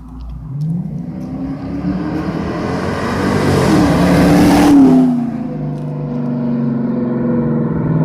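Dodge Charger's 5.7L Hemi V8 through Flowmaster Super 44 mufflers, accelerating past: the exhaust note rises in pitch and loudness, is loudest about five seconds in as the car passes, then drops in pitch and keeps running as it moves off.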